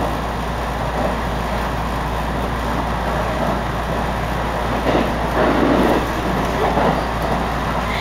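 Electric train on the JR Chūō Line running at speed, heard from inside the passenger car: steady wheel-and-rail running noise that swells louder for a moment about five seconds in.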